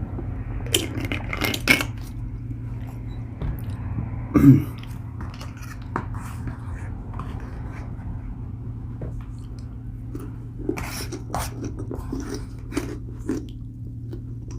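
A person chewing and eating food close to the microphone, with scattered short clicks and scrapes of cutlery or dishes, over a steady low hum.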